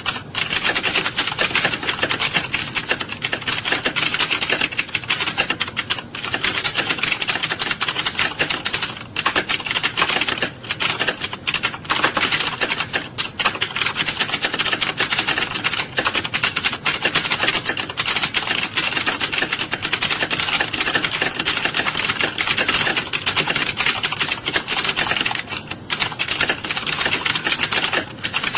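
A roomful of computer keyboards being typed on at once: dense, continuous key clatter from many typists, with only a few brief lulls.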